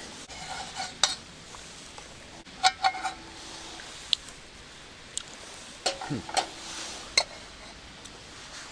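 Eating utensils clinking and scraping against metal camp cookware during a meal, about eight sharp ringing clicks spread irregularly, over a faint steady sizzle.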